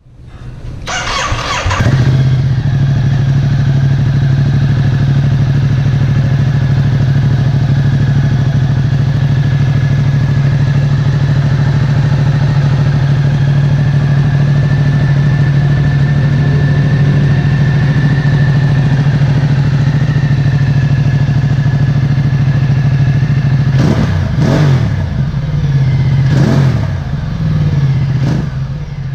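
Ducati Multistrada 1260S's 1262 cc Testastretta DVT V-twin starting up and settling into a steady idle. Near the end it is revved three times, each blip rising and falling back to idle.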